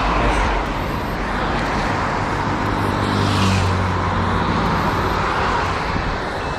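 Road traffic on a wet street: steady traffic noise, with one vehicle's engine and tyre hiss swelling and passing about three seconds in.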